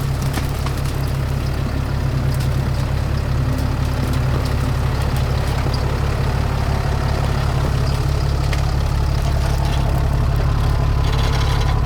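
Truck engine idling steadily with a low, even drone.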